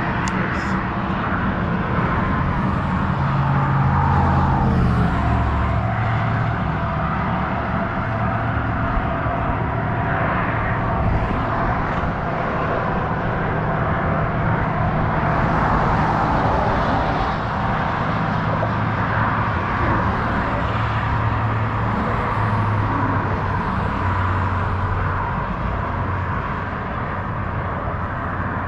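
Steady engine drone with wind noise from a moving vehicle, running evenly throughout.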